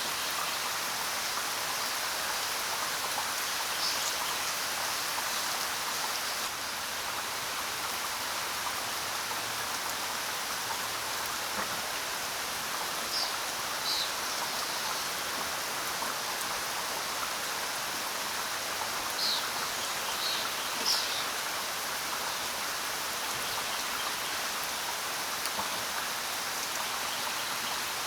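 Steady rain falling, with a few brief high bird chirps scattered through it.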